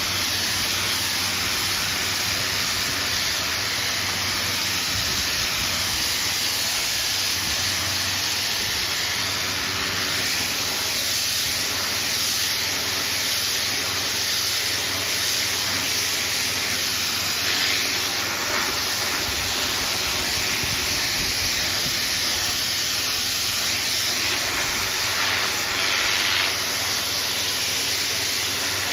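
Pressure washer jet spraying continuously, a loud steady hiss of high-pressure water with a faint low hum underneath.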